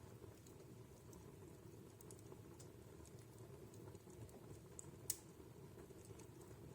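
Wood fire in a fireplace crackling faintly: scattered small irregular snaps over a low steady background, with one sharper pop about five seconds in.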